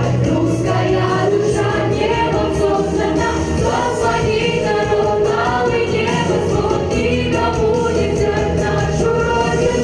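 Vocal ensemble singing together as a choir over musical accompaniment, with a steady bass line under the melody.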